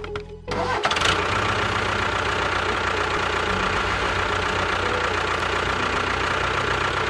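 Engine running steadily at an even pitch, with a low rumble and a thin whine. It starts about half a second in.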